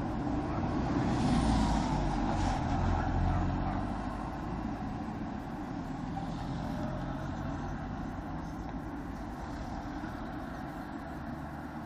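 Yamaha XTZ 125's single-cylinder engine running under way, with road and wind noise; it grows louder for a couple of seconds near the start, then settles.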